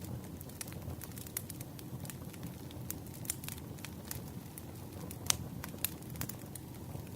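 Log campfire burning, wood crackling with irregular sharp pops over a steady low rumble; the loudest pop comes about five seconds in.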